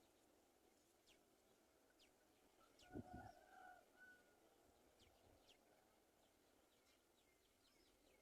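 Near silence with faint, scattered high bird chirps, each a short falling note, and a brief low bump about three seconds in.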